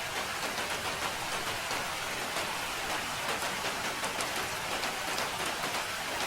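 Steady rain falling, a dense, even hiss of rain with many small drop ticks in it.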